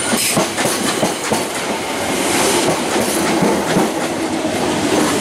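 A Class 317 electric multiple unit rolling past along the platform, its wheels clattering over the rail joints with a steady din of running noise.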